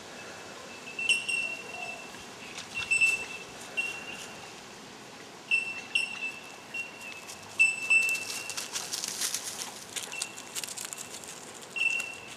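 A bird giving high, bell-like ringing notes at a single pitch, a dozen or so coming irregularly, each starting sharply. A hiss rises between about eight and ten seconds in.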